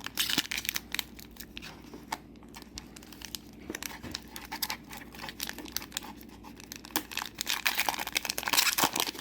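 Disney Lorcana booster pack wrapper crinkling and tearing as it is opened, with many sharp crackles that get busiest near the end.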